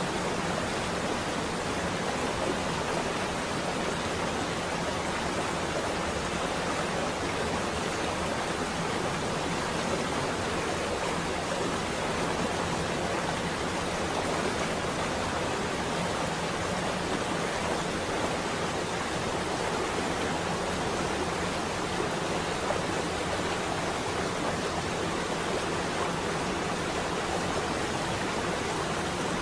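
Steady rain on a window: an even, unbroken hiss.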